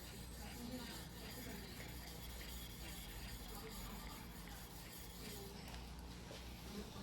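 Faint, rhythmic rubbing of a yanagiba blade stroked back and forth on a whetstone, about two strokes a second.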